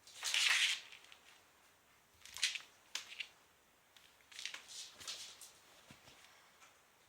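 Maine Coon kittens at play: short bursts of scratching and rustling with a few sharp clicks, the loudest burst just after the start.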